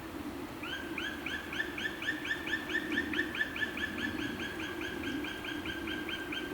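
A songbird singing a long, even run of quick repeated chirping notes, about four or five a second, starting about half a second in. A steady low rumble lies underneath.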